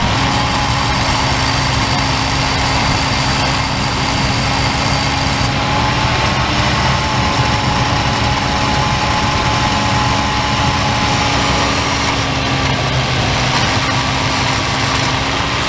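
1994 Chevy Silverado's 5.7-litre 350 V8 running steadily at a fast idle, its throttle held by a pedal clamp at about 2,000 rpm while a Seafoam treatment is fed into the intake.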